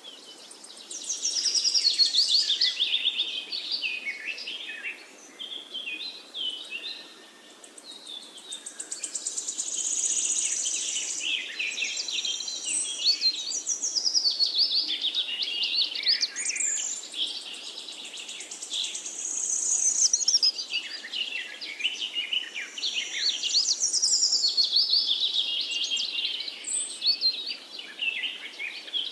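Parakeets chirping and chattering in a near-continuous run of quick warbles and rapid trills, with a short lull about seven seconds in.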